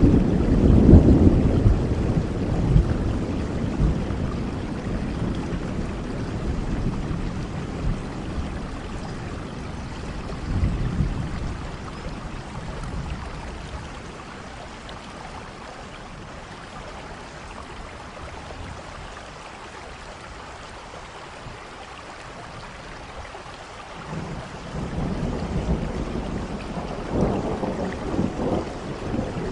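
Heavy rain falling steadily through a thunderstorm. Rolling thunder rumbles loudly at the start and fades away over the first dozen seconds, leaving mostly rain, then a new roll of thunder builds near the end.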